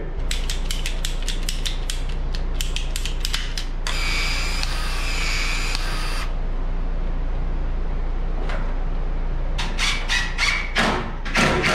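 PEX-A expansion tool working a pipe end: a run of quick, even clicks, about four or five a second, then a steady mechanical noise for about two seconds. More clicks follow near the end.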